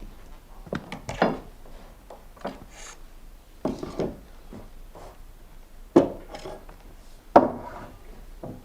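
Irregular wooden knocks and scrapes of timber being handled and shifted, with several separate knocks a second or two apart and rubbing between them.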